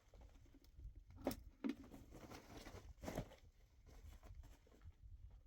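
Faint low rumble with three short knocks: two close together about a second in, and a third near three seconds in.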